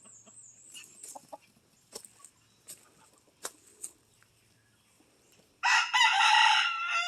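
Chickens clucking faintly with a few soft clicks, then a rooster crows once, loudly, for about a second and a half. The crow starts well past halfway and drops in pitch at the end.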